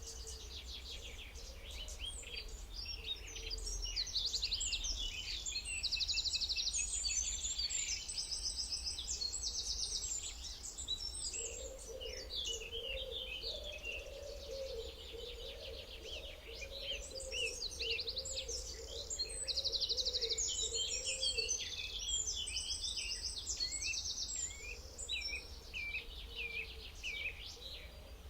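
A chorus of several birds singing and calling together, with quick chirps, whistles and fast trills overlapping throughout. A lower, wavering call joins in about a third of the way through and fades out around three quarters of the way in.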